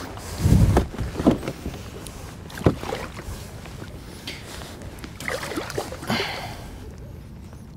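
Handling noise in a kayak: a heavy bump, then several sharp knocks, and a short rushing stretch of water or movement noise near the middle.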